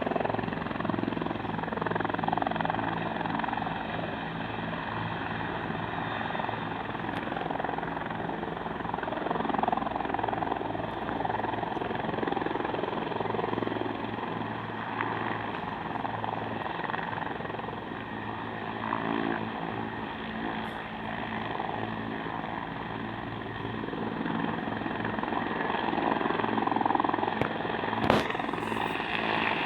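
Helicopter's engine and rotor running steadily, rising and easing slowly in loudness, with one short sharp knock near the end.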